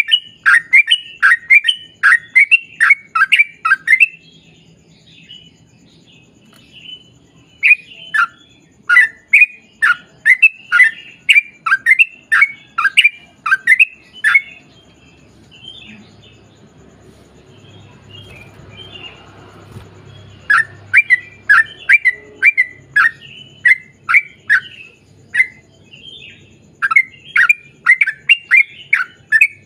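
Yellow-vented bulbul (trucukan) singing long rapid runs of sharp downslurred chirps, the long 'ropel' run prized by keepers. Four runs, broken by pauses of a few seconds with only a few scattered faint notes.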